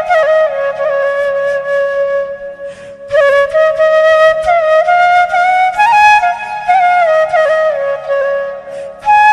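Background music: a solo flute playing a slow melody of long held notes with small ornaments, breaking off briefly about three seconds in and again near the end.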